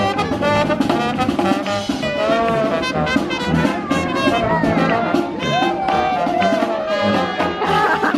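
Jazz-style brass music, with trumpets and trombones playing a lively tune with sliding notes.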